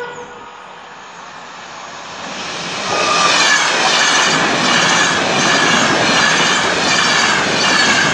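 Enterprise express train passing at speed: a rush of wheels on rail and air builds as it approaches, then turns loud and steady from about three seconds in as the coaches sweep by.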